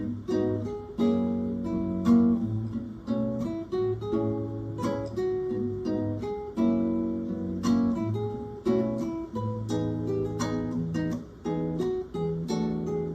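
Acoustic guitar music: strummed chords and plucked notes over a steady low bass line, played live by a small ensemble.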